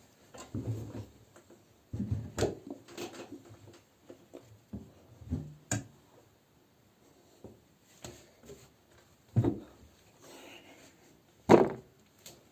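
Laundry being loaded into a front-loading washing machine: irregular rustling, bumps and knocks, the loudest a sharp knock near the end.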